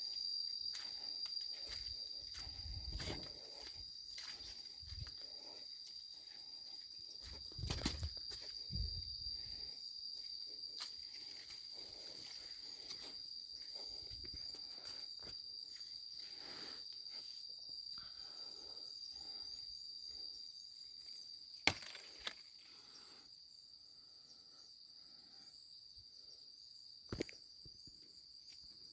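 Steady high-pitched insect trill running throughout, with soft rustling and a few bumps, like footsteps, in the first third. Sharp clicks or snaps come twice about two-thirds through and once near the end.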